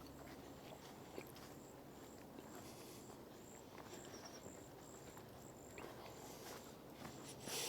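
Faint outdoor ambience: a thin, high insect chirp repeating about twice a second, with soft footsteps on the trail and a louder rustle near the end.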